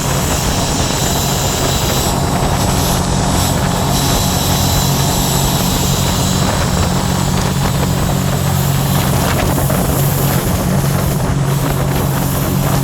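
Scarab 165 ID jet boat's Rotax 1503 4-TEC three-cylinder engine running steadily under way, its drone held at an even pitch over a loud constant rushing noise.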